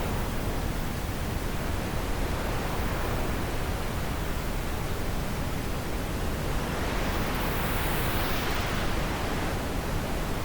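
Wind blowing as a steady, even rush. A gust swells and brightens about two-thirds of the way through, then dies back down.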